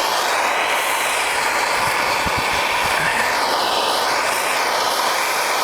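Steady rushing hiss of a heating tool blowing on a frozen heating-oil line to thaw ice that formed from condensation in the tank.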